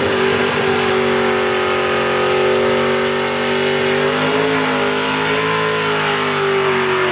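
Junior dragster's single-cylinder engine held at high, steady revs through a rolling burnout, over a loud hiss from the spinning rear tyre. The pitch dips slightly about four seconds in and then climbs back.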